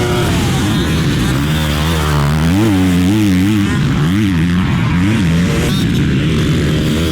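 Motocross dirt bike engine revving up and down over and over, its pitch rising and falling every second or so as the throttle is worked.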